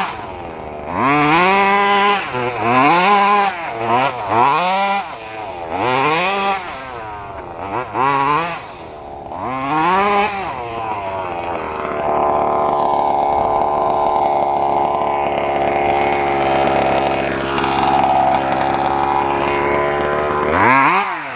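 Two-stroke 32cc Robin engine of a 1/5-scale RC truck, revved up and down about six times, then held at high revs for several seconds before easing off near the end.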